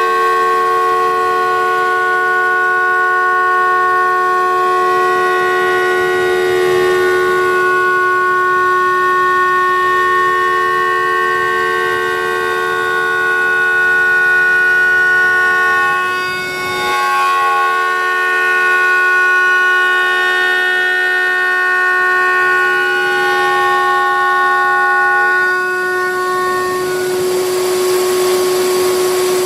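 CNC router spindle running as it mills a wooden guitar neck: a steady whine of several held tones, some dropping out and returning as the cutter moves, with a brief dip a little past halfway.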